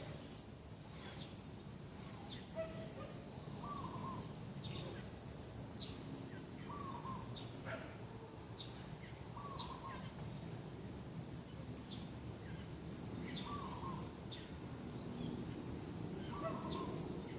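Doves cooing in short repeated phrases every few seconds, with other small birds chirping in high, short notes over a steady low background hum.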